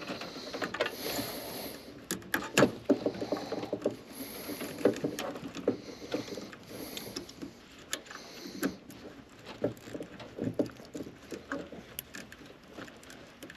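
Irregular clicks, scrapes and rustling of a hand tool and hands working at the wiring inside an air handler, cutting off a wire clip without diagonal cutters.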